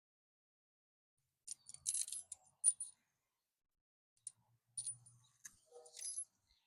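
Scattered faint clicks and clinks of handling, in two short clusters after a moment of dead silence at the start.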